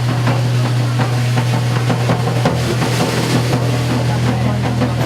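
Live amplified band music: a steady low bass drone held throughout, with scattered drum and cymbal hits over it.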